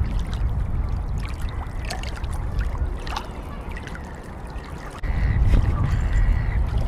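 Wind rumbling on the microphone, with short scattered bird calls over it; the rumble jumps louder about five seconds in.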